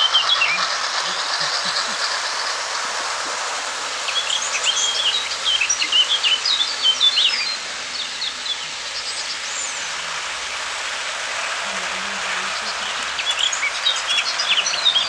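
Small garden birds chirping and twittering in quick bursts, over a steady background hiss that drops a little about halfway through.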